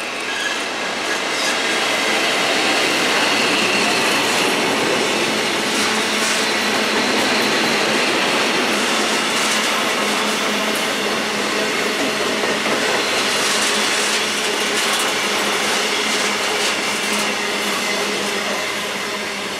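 DB Cargo Class 66 diesel locomotive, with its EMD two-stroke engine, passing at the start, followed by a long rake of loaded covered steel wagons rolling by with a steady rush and clatter of wheels over the rail joints.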